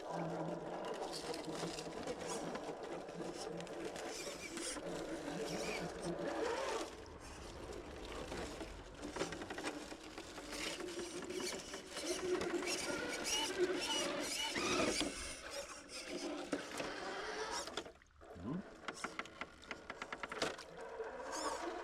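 Redcat Ascent RC rock crawler's electric motor and gears whining, rising and falling with the throttle, with the tyres and chassis knocking over rough ground. A quick run of sharp clicks comes near the end.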